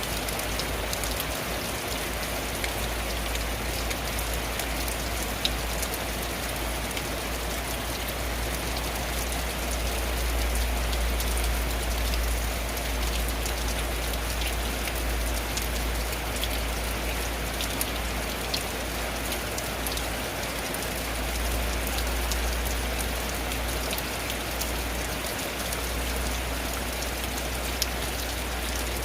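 Steady rain falling on a tin roof: a dense, even hiss with many scattered sharp drop ticks, over a steady low rumble.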